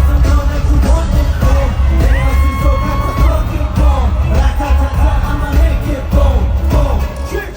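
Live K-pop over a concert sound system: a heavy bass beat under a male voice singing, with one note held for about a second starting about two seconds in.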